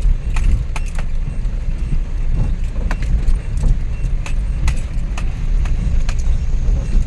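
Suzuki DA64V van driving on its freshly rebuilt K6A three-cylinder engine: a steady low rumble of engine and road, with scattered light rattles and clicks.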